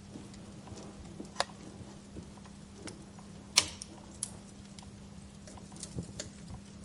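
Wood fire crackling in a fireplace: scattered sharp pops and snaps over a low steady hum, the loudest pop about three and a half seconds in.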